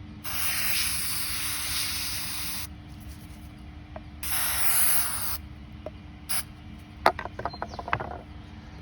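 Aerosol can of spray glue hissing in two bursts: a long one of about two and a half seconds, then a shorter one about four seconds in. A run of light clicks and taps follows near the end.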